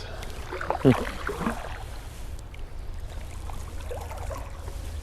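Canoe paddling: paddle strokes in the water with splashes and drips, and a sharp knock about a second in, over a steady low rumble.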